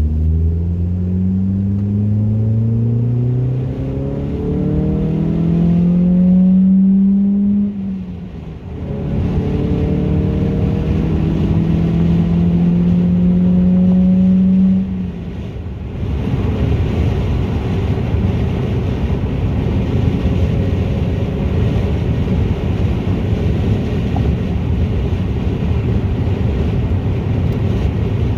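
Exhaust of a 2004 Ford Focus 2.0 Zetec four-cylinder with a race header and 2.5-inch exhaust, rising in pitch through a gear change under acceleration, then holding a steady note. About halfway through the engine note drops away, and a rough, low rumbling noise without a clear pitch takes over.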